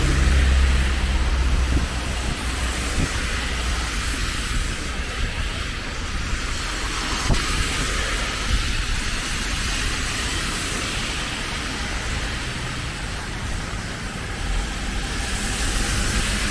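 Steady hiss of rain and traffic on wet streets, with a heavy low rumble at the start and again near the end, as from vehicles passing close by.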